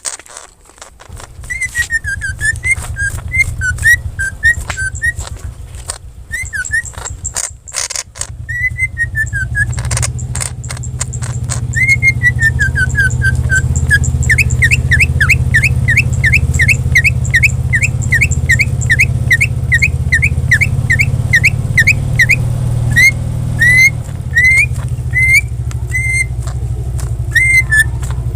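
Green leafbird (cucak ijo) singing in clear whistled notes: drawn-out falling slurs, then a fast run of short whistles about two a second. A steady low hum runs underneath, and a flurry of clicks comes about a third of the way in.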